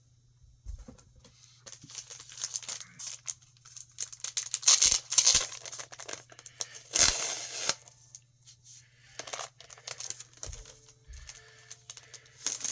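Crinkling and tearing of plastic and paper packaging as comic books are handled and pulled out, in irregular rustles that are loudest near the middle. A faint low hum runs underneath.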